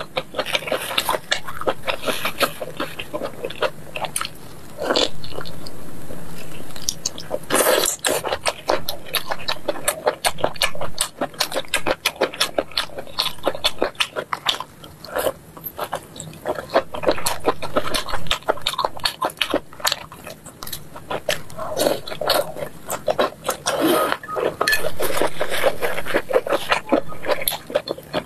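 Close-miked eating sounds: chewing and mouth smacking on sauce-coated grilled sweet potato starch sheets, with many quick, irregular mouth clicks.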